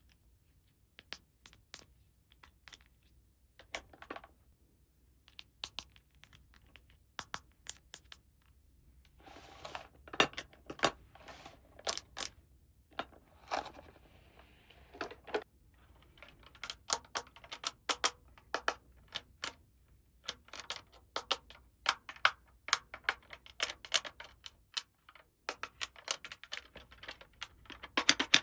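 Small plastic toy pieces being handled and set down: irregular light clicks and taps, sparse at first and busier from about nine seconds in, with a brief rustle partway through.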